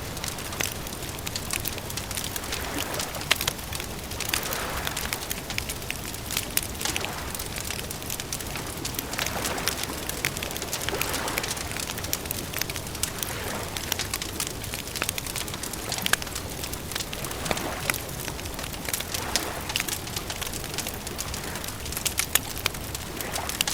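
Wood campfire crackling, with frequent sharp pops and snaps over a steady bed of noise that swells softly every couple of seconds.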